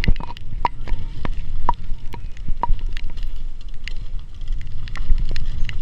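Mountain bike clattering down a rough downhill trail: irregular sharp clicks and metallic knocks, some ringing briefly, over a steady low rumble.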